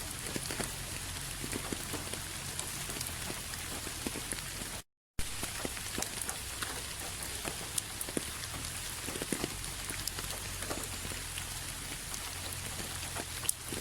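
Steady rain falling, an even hiss with many single drops ticking sharply on a surface. About five seconds in, the sound cuts out completely for a split second, then resumes.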